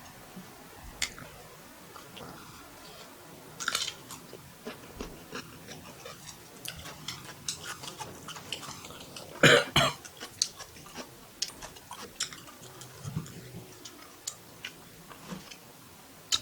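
Close-up sounds of a person chewing spicy beef fried rice, with many small wet mouth clicks, and one louder sudden sound a little past halfway through.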